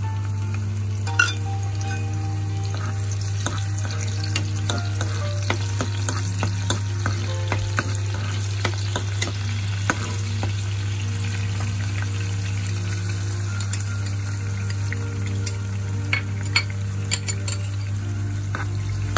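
Black beans sizzling in hot oil in a ceramic-coated frying pan, stirred with a metal spoon that clicks and scrapes against the pan again and again. A steady low hum runs underneath.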